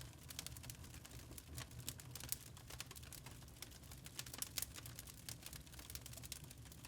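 Wood fire crackling in a fireplace: dense, irregular small pops and snaps over a low, steady rumble.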